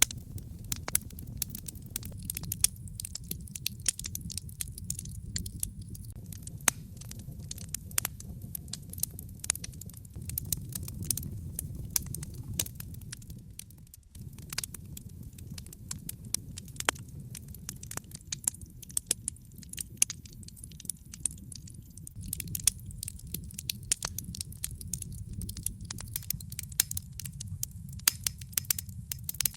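Wood fire crackling: frequent sharp pops and snaps over a steady low rumble of burning flames, with a momentary dip in level about halfway through.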